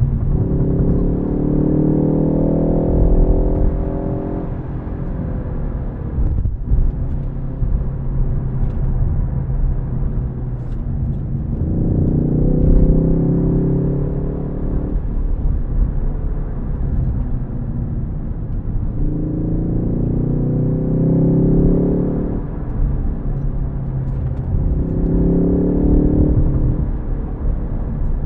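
Ford Focus ST with a six-speed manual accelerating hard four times, its engine note climbing in pitch for a few seconds and then dropping off suddenly, over a steady low road rumble.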